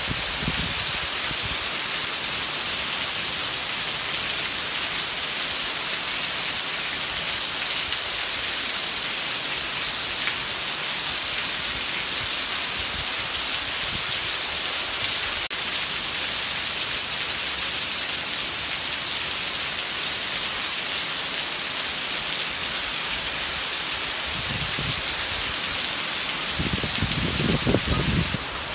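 Heavy rain pouring off a roof edge and splashing onto a wet tiled floor and garden: a steady, dense hiss. Near the end a few low rumbles come in under the hiss.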